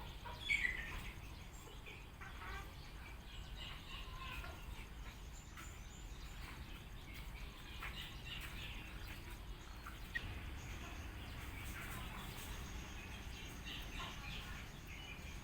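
Several birds chirping and calling in short scattered notes, one louder call about half a second in, over a steady low background rumble.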